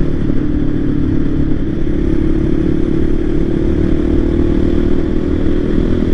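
Voge 300 Rally's single-cylinder engine running at a steady cruising speed, with wind and road noise. The engine pitch holds level throughout.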